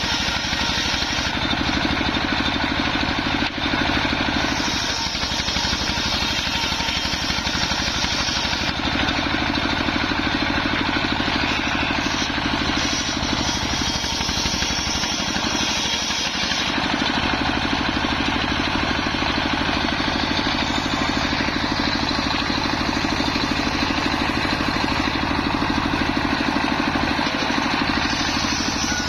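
Engine-driven home-built circular sawmill running steadily while it rips waru (sea hibiscus) wood into battens, the engine and spinning blade making one continuous loud noise that shifts slightly every few seconds.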